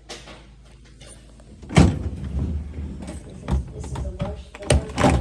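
Bottom freezer drawer of a Whirlpool French-door refrigerator being handled: a loud clunk about two seconds in, then several more knocks and clunks.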